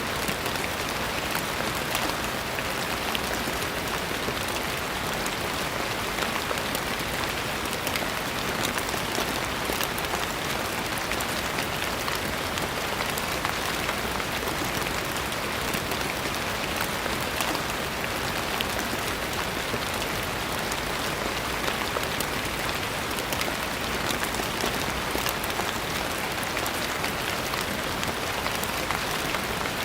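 Steady rain falling, a dense, even patter of many drops hitting a surface, with fine drop ticks throughout.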